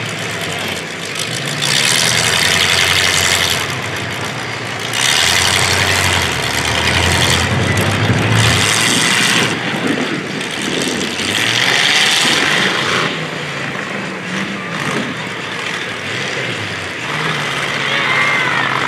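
Demolition derby cars' engines revving hard in about four loud surges, dropping back between them, with a low engine rumble underneath.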